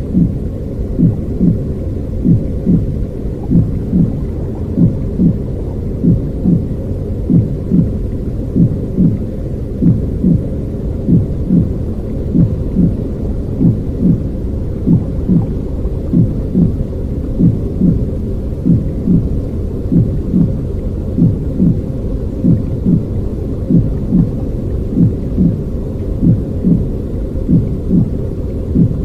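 Baby sleep sound: a steady, deep, muffled rumbling noise with a soft regular thump a little under twice a second, like a heartbeat heard from inside the womb.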